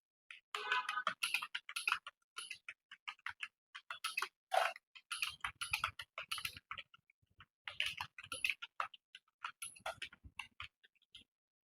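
Fast typing on a computer keyboard: a quick, uneven stream of key clicks, several a second, with brief pauses between runs.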